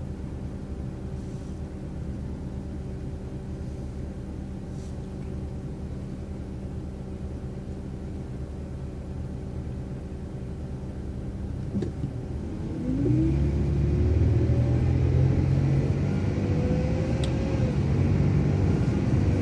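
City bus engine heard from inside the bus, running at a steady speed, then about two-thirds of the way through growing louder as the bus pulls away, with a whine that rises in pitch and then holds.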